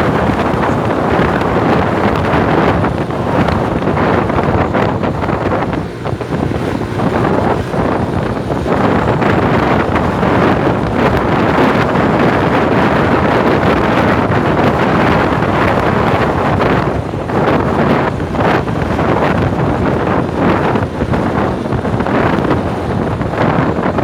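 Loud, steady wind noise buffeting the microphone, with vehicle noise under it.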